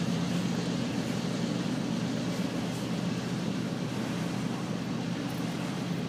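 Norfolk Southern freight train's cars rolling past on the rails: a steady, continuous low rumble with no break.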